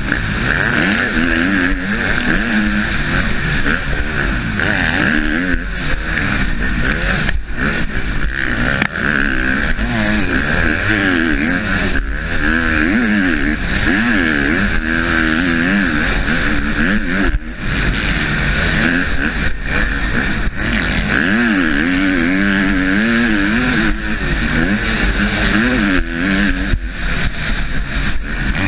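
Husqvarna motocross bike's engine, heard from the rider's helmet, revving hard and constantly rising and falling in pitch with throttle and gear changes, with rushing wind. The engine note dips briefly twice, about seven seconds in and again near the middle.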